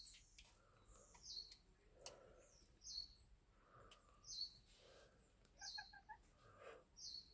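Faint bird chirps: a short, high, falling note repeated about every second and a half, with softer low calls between and a quick run of short notes a little after halfway.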